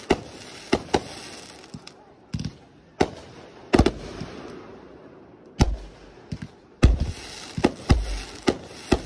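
Aerial fireworks bursting overhead: a fast, irregular string of sharp bangs, more than a dozen, with crackling hiss in between. The heaviest, deepest booms come in the second half.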